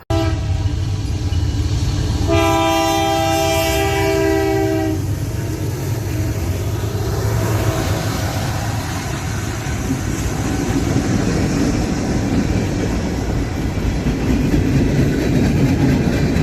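Train rolling by with a steady low rumble of wheels on track; about two seconds in, the locomotive's air horn sounds one chord lasting about two and a half seconds.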